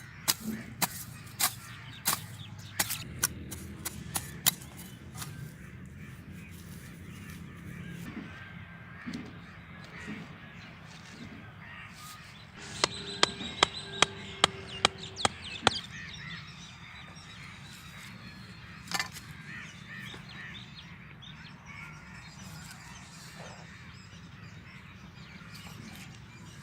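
Crows cawing in short, sharp runs of calls, a rapid series in the first few seconds and again about halfway through, with a single call later.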